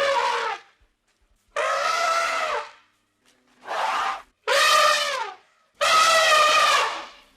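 An animal calling four times: drawn-out pitched calls of up to about a second each, most dropping in pitch as they end.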